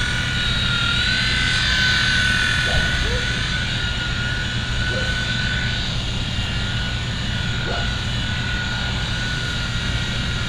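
Small electric RC helicopter (WLtoys V911) in flight, its motors and rotor giving a steady high whine that wavers slightly in pitch as it manoeuvres.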